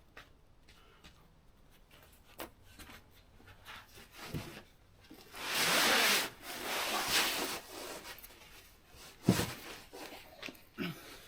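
A climber's shoes and hands scuffing and rubbing on a rock boulder, with a long, louder scrape about halfway through and a sharp knock near the end.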